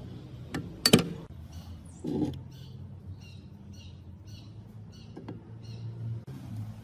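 A few sharp knocks, the loudest about a second in, then a bird chirping in the background, a series of short high chirps repeated a couple of times a second.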